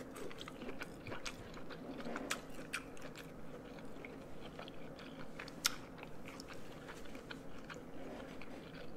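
A person chewing a mouthful of food, with a run of small wet mouth clicks and one sharper click about five and a half seconds in.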